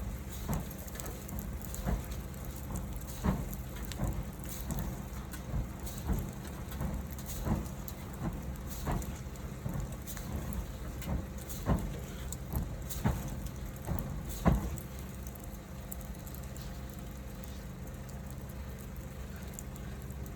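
Wood fire burning, with sharp crackles and pops about once a second over a steady low hiss. The pops stop about three-quarters of the way through, leaving only the hiss.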